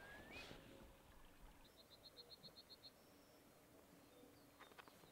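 Faint bird calls over near silence: a rapid run of about a dozen short, high pips about two seconds in, followed by a brief high whistle.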